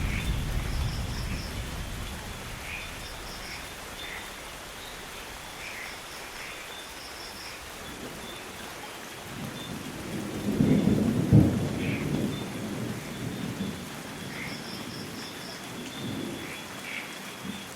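Steady rain with thunder: a rumble fades out at the start, and a second roll of thunder swells about ten seconds in, peaks and dies away. Faint high chirps come in short runs now and then.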